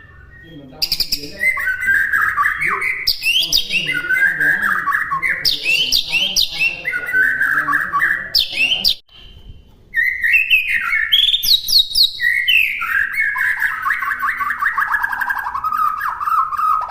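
White-rumped shama (murai batu) singing: repeated loud phrases, each opening with sharp high notes and falling into a rapid warble. There is a short pause about nine seconds in, and a longer warbling phrase near the end.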